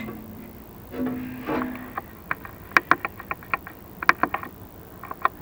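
Two short pitched tones, then a quick irregular run of sharp, ringing clicks and knocks, fitting a chimney inspection camera being lowered down a clay-tile flue and tapping against the tiles.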